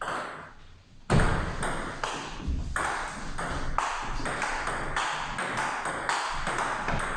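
Table tennis ball being struck back and forth in a rally: a sharp hit about a second in, then a quick, steady run of clicks from bats and table bounces.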